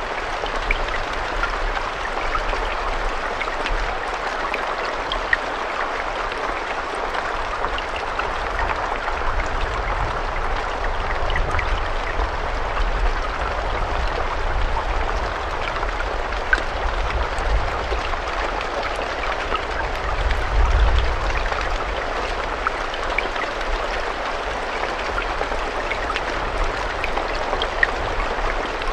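Steady rain falling, an even hiss of drops with scattered sharper drips, over a low rumble that swells briefly about two-thirds of the way through.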